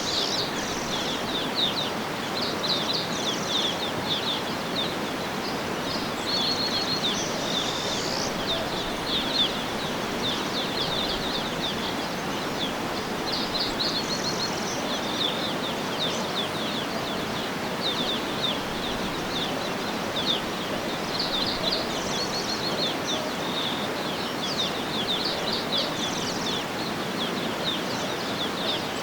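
Birds chirping and trilling in frequent short phrases over a steady outdoor background hiss.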